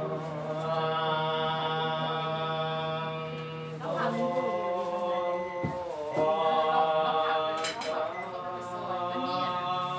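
Buddhist chanting: several voices in unison holding long, steady tones, shifting pitch about four seconds in and again about six seconds in.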